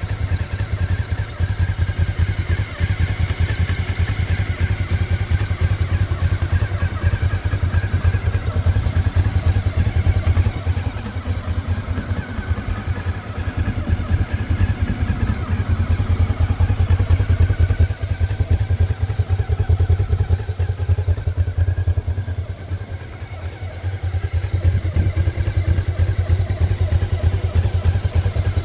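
Honda CB500 Sport's parallel-twin engine idling steadily, a fast, even low pulse, dipping briefly in level about twenty-two seconds in.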